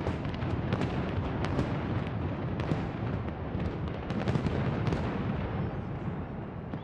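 Fireworks display: a dense, continuous barrage of overlapping bangs and booms with sharp crackles on top.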